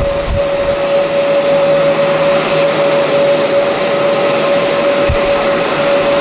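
Jet airliner engines running with a steady high whine over a broad rush of noise. Wind buffets the microphone briefly at the start and again about five seconds in.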